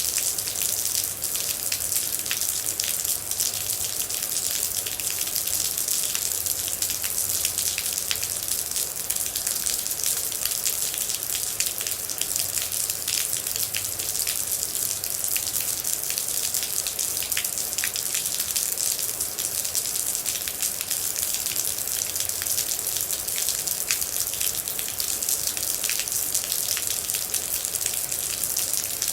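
Steady rain falling, with a dense, even hiss and many sharp individual drop ticks throughout.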